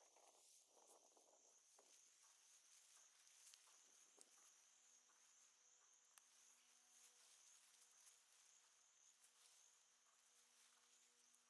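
Near silence with a faint, steady, high insect trill throughout. A faint low hum joins about four seconds in.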